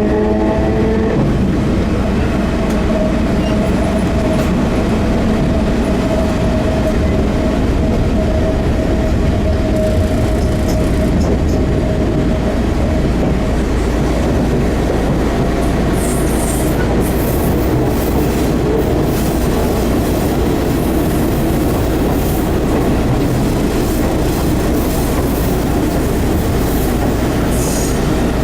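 Enshu Railway 30-series electric train running, heard from inside the car: a steady rumble of wheels on rail with a drive whine that slowly falls in pitch and fades over the first half. Sharp clicks and squeals from the wheels and track come in about halfway through.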